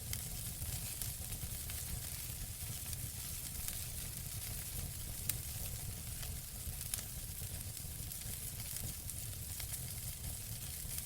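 Wood fire in a fireplace burning with a steady crackle and hiss over a low rumble, with scattered small clicks and two sharper pops a little past halfway, the first the loudest.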